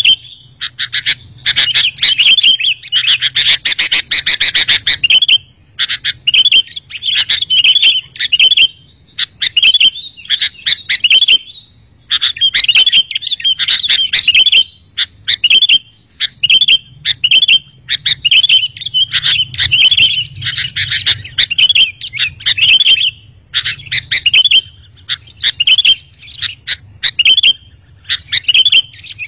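Sooty-headed bulbul (kutilang) song: short chirping phrases repeated in quick succession with brief pauses, crowding together in places.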